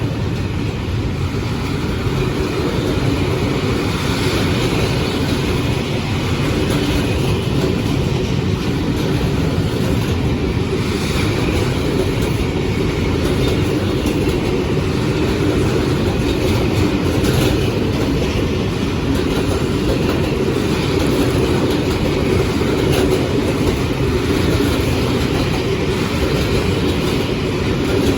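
A train running past, a loud steady rumble of wheels on rails with a steady hum.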